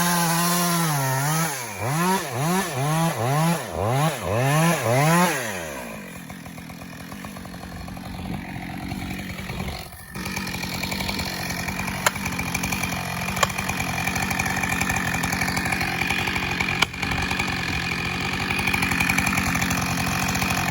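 Two-stroke chainsaw held at high revs, then blipped up and down about six times before dropping back. From about ten seconds in, a steady running engine with three sharp knocks.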